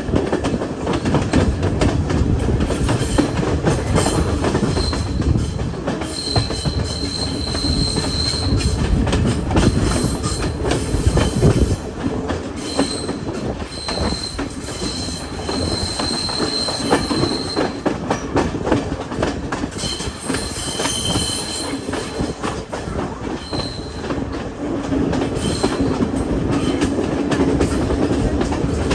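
Passenger train running along the track: a steady rumble and clatter of the wheels, with high-pitched wheel squeal coming and going several times.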